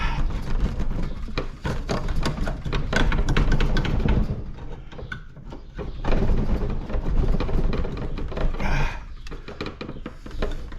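Irregular metal clanking and knocking, with scrapes and a low rumble, as scrap metal parts are worked apart by hand.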